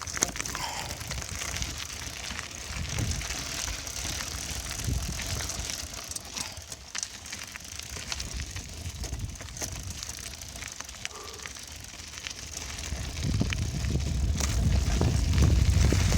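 Bicycle being ridden, with tyre noise and small rattling clicks throughout. A low rumble grows louder over the last few seconds.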